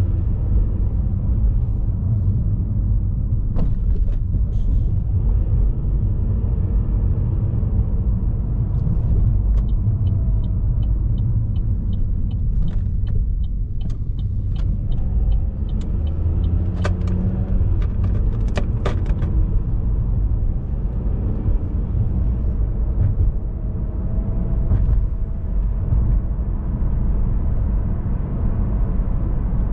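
Car driving along, a steady low road rumble of tyres and engine. In the middle comes a run of even light ticks, followed by a few sharp clicks.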